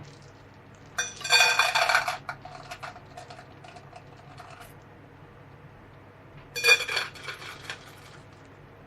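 Dishes and cutlery clattering and clinking in two short bouts, the first about a second in and the second near seven seconds, with a ringing tone after each clink.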